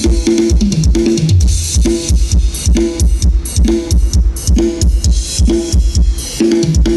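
Dance music with a heavy kick drum and bass line played loudly through outdoor PA subwoofers: 15-inch 'Order 6' plywood bass cabinets with Trump drivers, on test for how tight the bass is. The kick lands about twice a second under a pulsing bass line.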